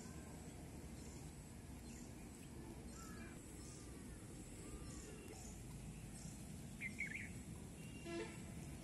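Faint outdoor background noise with scattered bird calls: a few short chirps about three seconds in, a louder pair of calls about seven seconds in, and a harsher call just after eight seconds.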